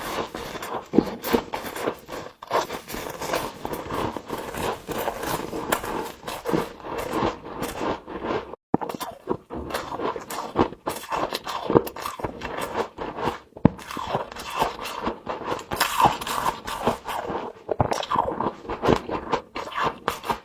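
Close-up crunching and scraping of humidifier frost being bitten and chewed: a dense, continuous run of crisp crackles and crunches. The sound cuts out briefly about eight and a half seconds in.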